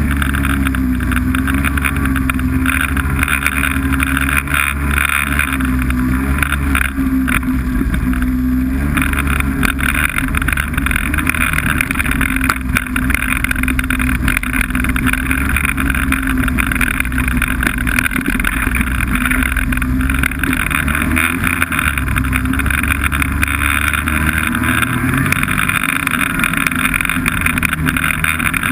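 Snowmobile engine running steadily under way, its pitch wavering a little with the throttle.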